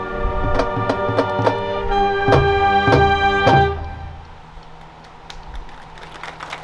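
Marching band playing held brass chords punctuated by sharp drum hits. The chord shifts higher about two seconds in, then cuts off just before the fourth second, leaving a quieter stretch with a soft low sustained tone and light percussion ticks.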